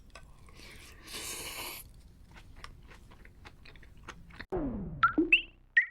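Crispy fried sweet and sour pork bitten with a loud crunch, then chewed in a run of small crackling clicks. About four and a half seconds in, a falling whistle-like sound effect and short bouncy pitched blips of a playful jingle take over.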